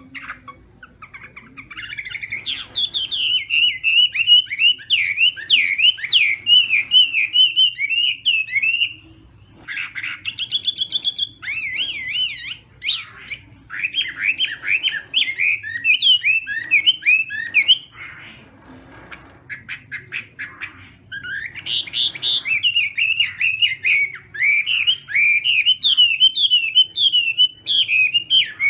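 Chinese hwamei (họa mi) singing long, fast phrases of varied whistled notes that sweep up and down in pitch. There is a gap of a few seconds about two-thirds of the way through before the song starts again.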